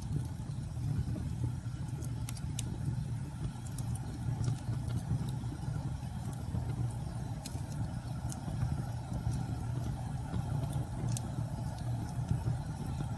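Steady low rumble of storm wind with scattered sharp crackles and pops from a burning wood fire, about a dozen at irregular intervals.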